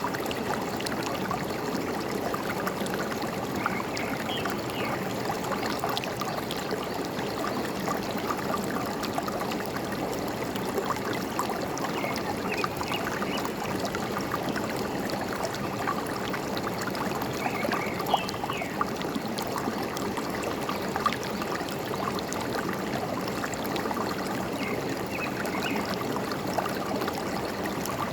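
Forest stream babbling and trickling steadily, with short bird chirps about four times.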